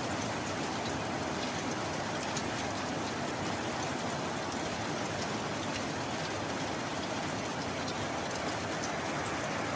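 Steady rain falling: a constant even hiss with scattered drop ticks, and no thunder.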